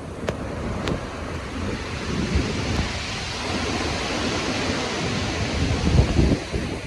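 Stormy sea: heavy waves in surf, the rush of water building to a deep crash about six seconds in and then falling back.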